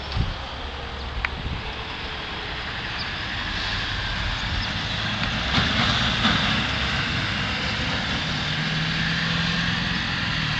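A motor vehicle's engine running nearby, the noise growing louder over the first several seconds, with a steady low engine hum from about eight seconds in.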